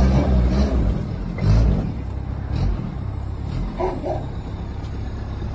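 Truck engine running with a steady low rumble that swells at the start and again about a second and a half in.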